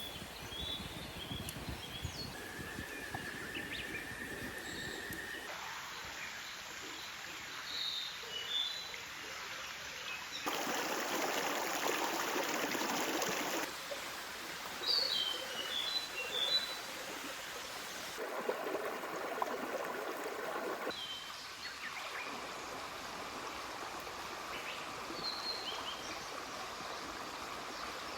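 Running water of a clear stream, with small birds chirping now and then. The water's sound changes abruptly several times and is loudest for a few seconds around the middle.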